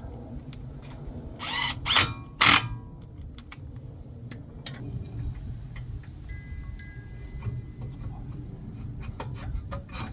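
Three short bursts of a power tool driving fasteners during front hub reassembly, followed by scattered light tool clicks and clatter.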